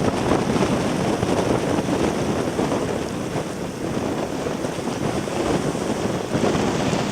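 Strong typhoon wind blowing across the microphone over surf and rushing water, a dense steady noise with no let-up.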